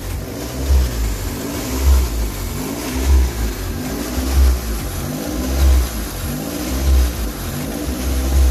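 Toyota 3SZ 1.5-litre four-cylinder engine in a VW bus running with its speed rising and falling evenly, about once every second and a quarter, seven surges in all.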